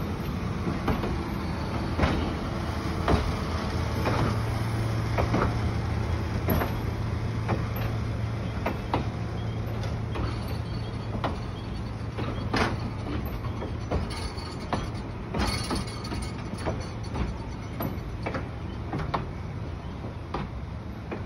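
Passenger train rolling slowly past, its wheels clacking over rail joints at irregular intervals above a steady low drone.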